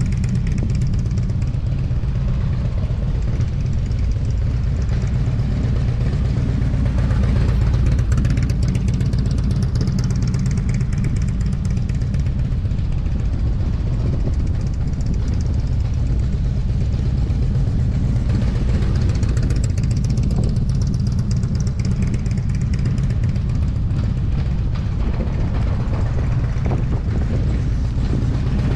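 Motorcycle engine running steadily at a fairly even speed, a continuous low rumble.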